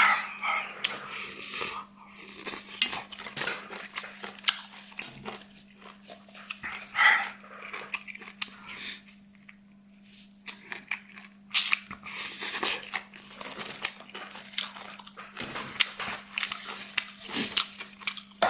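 Close-up eating sounds: chewing and slurping of spicy noodles and tofu skin, with utensils clicking against dishes, over a steady low hum.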